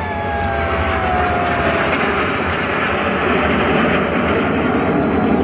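Jet aircraft flying past during an air display: a loud, steady rush of engine noise with a whine that falls in pitch over the first two seconds.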